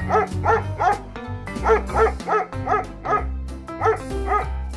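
Dog barking repeatedly, about nine short barks that mostly come in pairs, over background music with a steady bass line.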